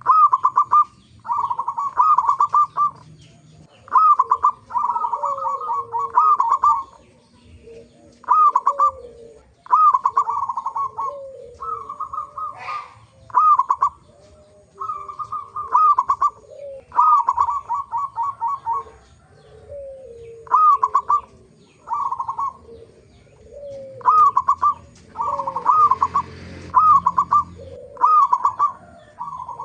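Zebra doves (perkutut) cooing: repeated bursts of quick, bright coo notes every second or two, with lower, falling coos between them.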